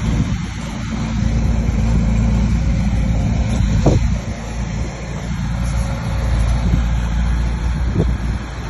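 Bulldozer's diesel engine working steadily under load, a loud low rumble, with a couple of short metallic knocks about four seconds in and near the end.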